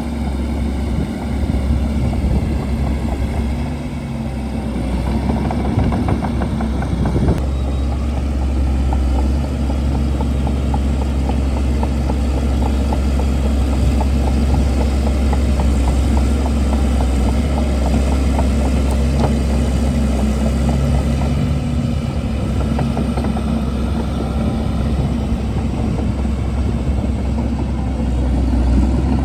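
Shantui DH17C2 bulldozer's diesel engine running steadily under work, with a fast rattle over it through the middle stretch.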